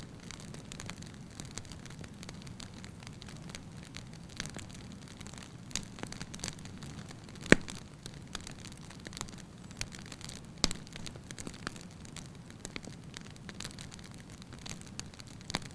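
Wood fire burning in a fireplace: a steady low rush of flames with frequent irregular crackles and pops, the sharpest pop about halfway through and another a few seconds later.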